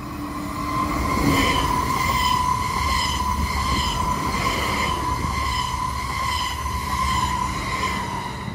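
Südostbahn Traverso electric multiple unit (Stadler FLIRT) running past close by: wheels rumbling on the rails with a steady high whine and a regular beat about twice a second, loudest as the front passes about a second in.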